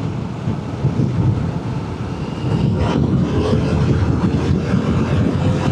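Yamaha R7's parallel-twin engine running at speed on the road, heard from the rider's own bike with wind rush over the microphone. Its note climbs slowly in the second half.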